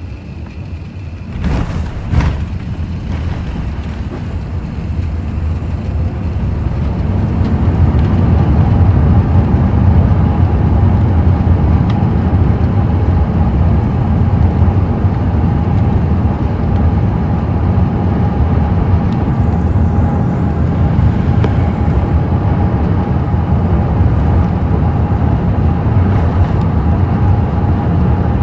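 Airbus A380 touching down, heard from the cabin: two thumps as the wheels meet the runway, then a loud roar that builds over several seconds and holds through the rollout, with a steady whine above it.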